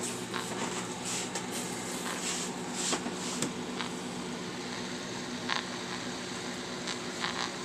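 Grundig G5 shortwave radio hissing with a steady buzzing hum of interference picked up from a running microwave oven held about a foot away, alongside the oven's own hum, with a few short crackles scattered through.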